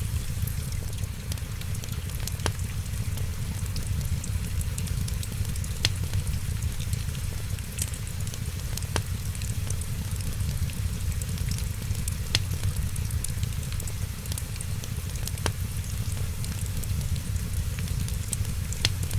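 Wood fire crackling in a fireplace, with sharp pops scattered at irregular moments over a steady low rumble and soft hiss.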